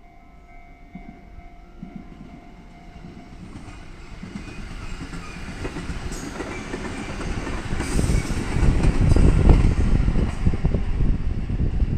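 Train approaching and passing close by on the line, growing steadily louder to a rumble with rapid wheel clatter over the rail joints, loudest about eight to ten seconds in.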